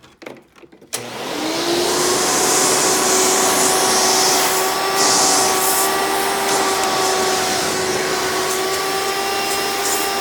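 Hoover Legacy Dirt Finder upright vacuum's direct-air motor switched on about a second in, whining up to speed and then running steadily with the hose off for tool use.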